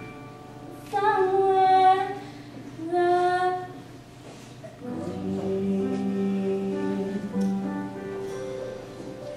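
Show tune from a live stage musical: a female voice sings two long held notes over soft keyboard accompaniment. About halfway through, the accompaniment takes over with sustained closing chords.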